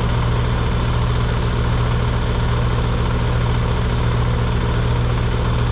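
Outdoor air-conditioning condensing unit running steadily: a low compressor hum under the even rush of the condenser fan.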